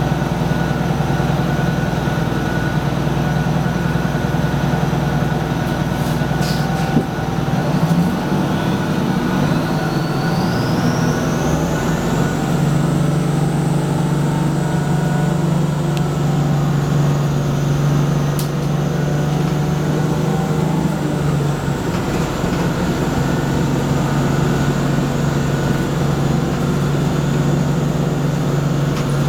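Detroit Diesel 6V92TA two-stroke V6 diesel of a 1995 Nova Bus Classic running, with a very loud, weird turbo whistle. About eight seconds in the engine note changes and the whistle rises steeply in pitch over a few seconds as the turbo spins up, then holds high, easing slightly lower near the end.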